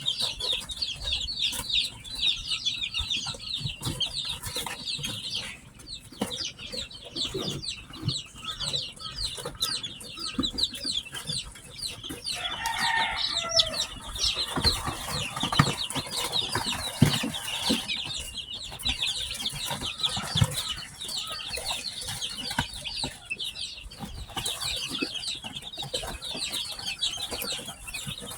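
Newly hatched chicks peeping in a constant, dense chorus of high, rapid chirps. About halfway through, a single lower, longer call sounds over them.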